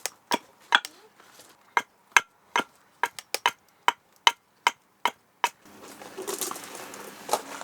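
A small axe chopping into a piece of wood in quick, sharp strokes, shaping the end of a wooden club. The strokes come about two to three a second, then stop, and a rustling noise takes over near the end.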